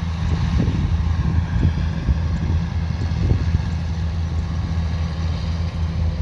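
Kubota DC105X combine harvester running steadily while harvesting rice: a constant low diesel engine drone with machinery noise over it and a few irregular low thumps.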